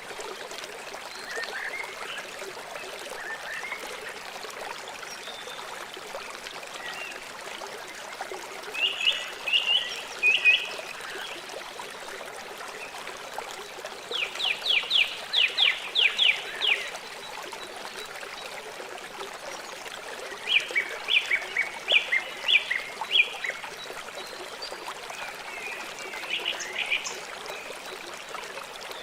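A river running steadily, with four bursts of rapid chirping calls from a small animal over it.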